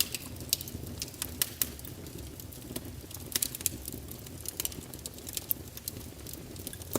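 Wood fire crackling: irregular sharp pops and snaps, several a second and some louder than others, over a low steady rush of burning.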